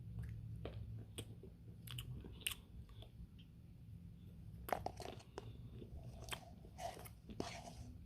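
Close-up chewing and crunching of a Dairy Queen Smarties Blizzard, ice cream with chocolate candy pieces, with scattered crisp crunches and wet mouth clicks that come thickest from about five seconds in.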